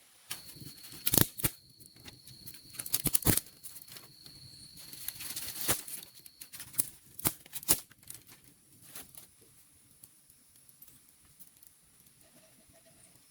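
Rustling with a run of sharp snaps and cracks, as of plant material being torn and handled, dense for the first eight seconds and then sparse. A steady high-pitched whine sounds under it for the first six seconds.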